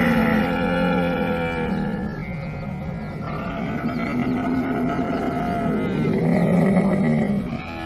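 Camel groaning: two long, loud calls, the second starting about three and a half seconds in.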